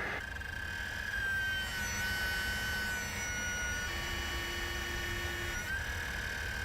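Submersible's machinery running: a steady low rumble with a high electric whine that dips and shifts pitch a few times, as the screen is raised.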